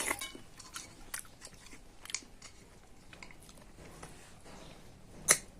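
Close-up eating sounds: a person chewing a mouthful, with soft wet mouth clicks, and one sharper click about five seconds in.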